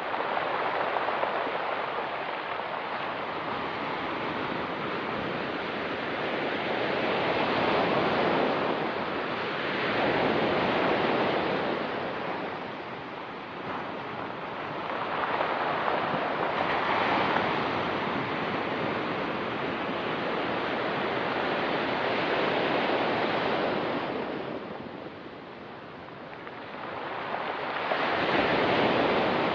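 Ocean surf breaking and washing over a pebble beach, in surges that swell and fade every few seconds, with a lull near the end before another wave comes in.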